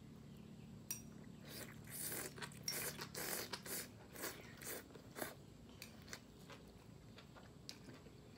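Close-up chewing of a grilled beef roll wrapped around carrot, bell pepper and enoki mushrooms: irregular crisp crunches, densest in the first half, thinning to softer chews near the end.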